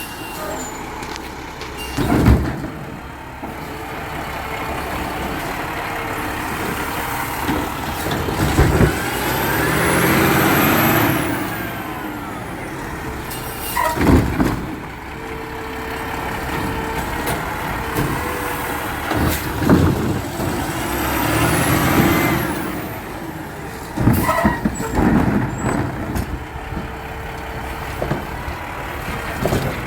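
Garbage truck working with its engine running. A whine rises and falls twice, and loud clanks and bangs repeat every few seconds.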